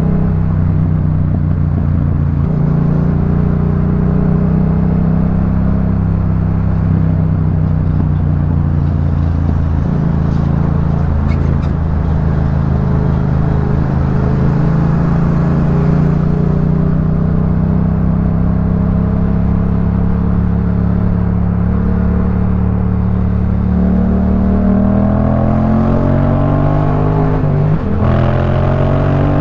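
Yamaha MT-07 parallel-twin engine through a Jeskap K4 full aftermarket exhaust, running under way at a fairly steady engine speed. Near the end it revs up, drops sharply at a gear change, and climbs again.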